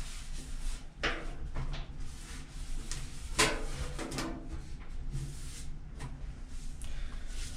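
Scattered knocks, clunks and scrapes of things being handled and moved, the loudest about three and a half seconds in, over a steady low hum.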